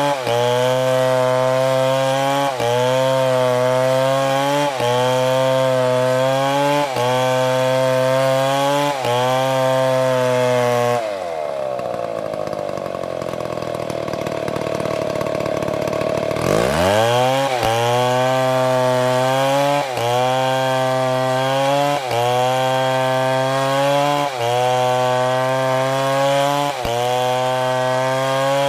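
Chainsaw running at high revs, with a brief dip in pitch about every two seconds. About eleven seconds in it drops to a low idle. Some five seconds later it revs back up to full speed, and the regular dips resume.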